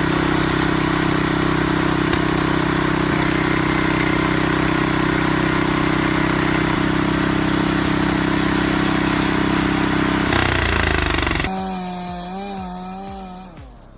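Homemade sawmill's engine running loud and steady. Near the end it gives way to a quieter, wavering whine.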